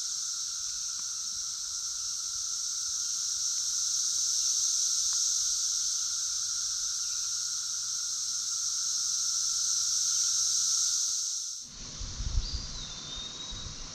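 Chorus of Brood XIX periodical cicadas: a loud, steady, hissing drone that holds without a break and cuts off suddenly about twelve seconds in.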